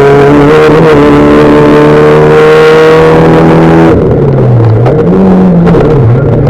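Fiat Bravo V1600-class rallycross car's engine running loud at high revs, its pitch slowly climbing. About four seconds in the throttle comes off: the revs drop, pick up briefly and drop again.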